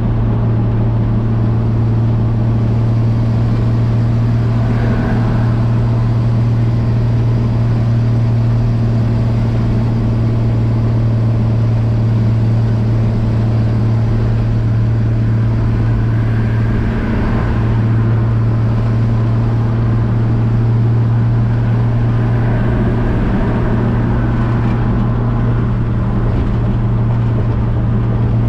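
1965 Chevrolet C10 pickup's inline-six engine running steadily at highway cruising speed: a constant low drone, with road noise rising and falling faintly a few times.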